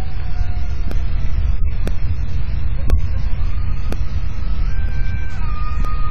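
Thunderstorm wind buffeting an outdoor microphone: a loud, continuous low rumble. Faint thin whistling tones drift slowly in pitch, and sharp clicks come about once a second.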